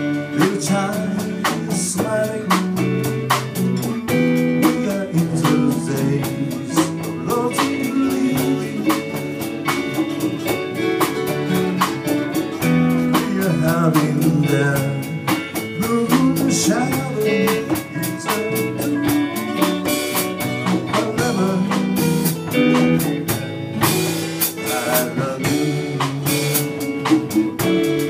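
A band playing a bluesy instrumental passage with guitar and drum kit, between sung verses.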